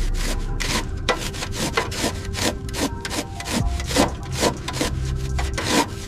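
Rapid back-and-forth rubbing strokes, about three a second, keeping an even rhythm.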